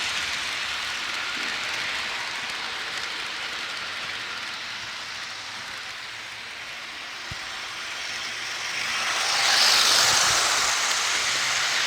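HO scale model train running on the layout track: the steady rolling hiss of wheels on rails fades a little, then grows to its loudest about ten seconds in as the train passes close. A single sharp click comes about seven seconds in.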